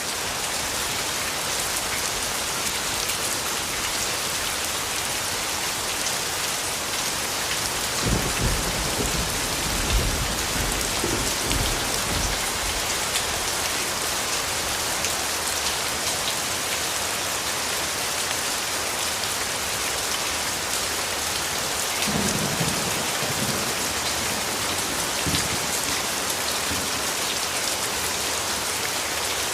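Steady, heavy rain hissing and pattering, with a low rumble of distant thunder about eight seconds in and again around twenty-two seconds.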